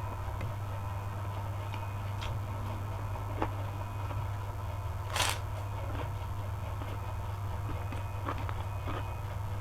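Close-up eating sounds: scattered small clicks and one louder crisp noise about five seconds in, over a steady low hum.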